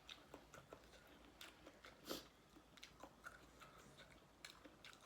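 Faint close-up chewing of spicy seafood papaya salad: scattered soft crunches and wet mouth clicks, with one louder crunch about two seconds in.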